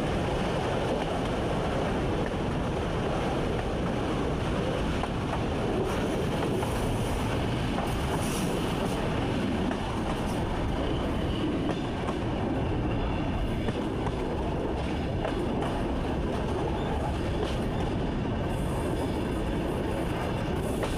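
Train running on the Slavutych–Semykhody line, heard from the driver's cab: a steady rumble of wheels on the rails.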